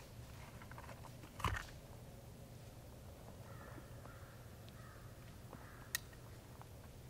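A single short, harsh bird call about a second and a half in, then a single sharp click near six seconds, over a faint steady low hum.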